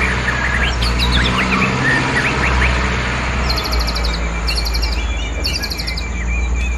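Small birds chirping with short rising and falling calls. From the middle on, a rapid high trill repeats three times. A steady low hum runs underneath.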